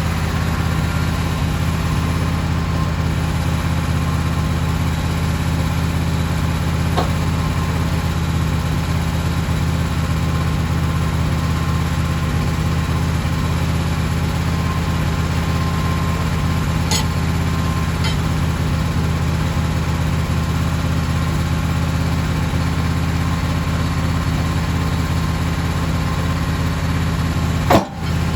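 An engine running steadily at an even speed, with no change in pitch, with a single sharp click and a brief drop in level near the end.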